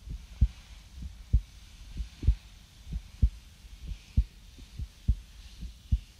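Slow heartbeat: low paired lub-dub thumps, a little under one pair a second, with a soft hiss swelling and fading behind it.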